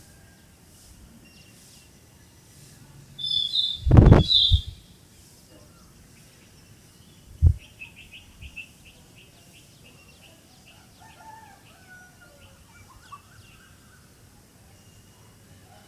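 Songbirds chirping outdoors: a loud high call about four seconds in, over a brief low rumble, then a quick run of high chirps and some softer, lower calls. A short low thump sounds near the middle.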